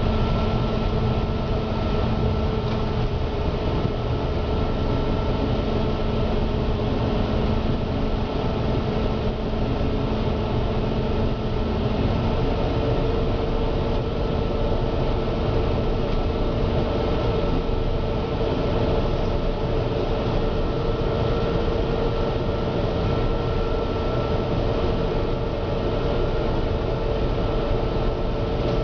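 Gleaner N6 combine running steadily while harvesting wheat: a continuous machinery drone with steady whining tones. About twelve seconds in, the lower whine drops out and a higher one comes up.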